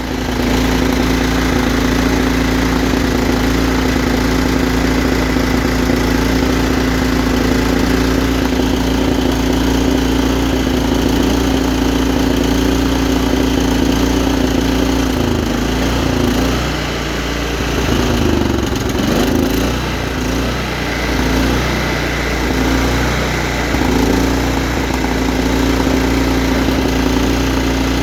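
Kohler PowerPlus 17 small engine running steadily at speed, then about halfway through its speed sags and surges unevenly for several seconds before settling back to a steady run. This uneven speed is typical of the erratic high-end RPM the engine is being checked for.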